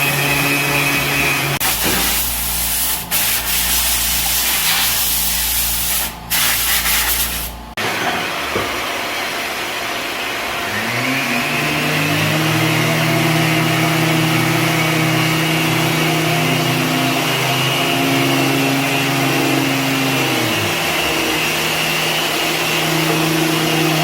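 Woodworking power tools working wood. First comes several seconds of rough, hissing rubbing with a low rumble. About ten seconds in, a machine motor spins up, runs steadily for about ten seconds, winds down, then starts again near the end.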